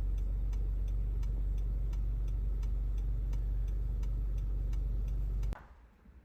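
Steady low rumble of a moving car heard from inside the cabin, with a turn-signal indicator ticking evenly about three times a second; both cut off suddenly near the end.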